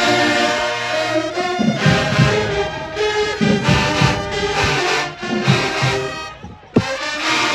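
Marching band brass playing sustained chords, with low drum hits underneath; the music breaks off briefly near the end, where a single sharp knock is heard.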